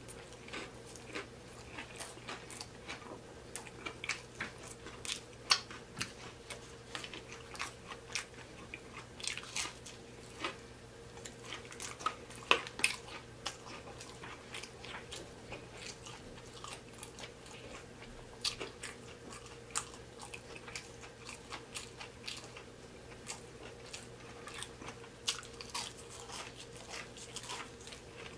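Close-miked chewing and biting of fried fish, with irregular crisp crunches and wet mouth smacks.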